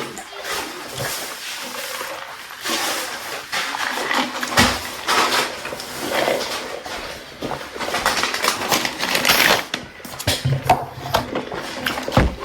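Close-up eating sounds: chewing, with irregular clicks and rustles of utensils and food containers.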